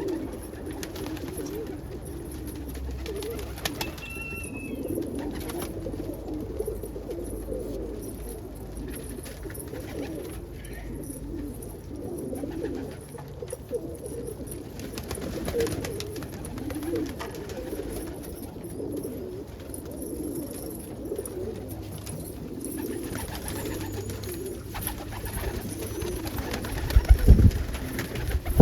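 A flock of domestic pigeons cooing continuously in a loft, many overlapping low coos. A few loud low thumps near the end.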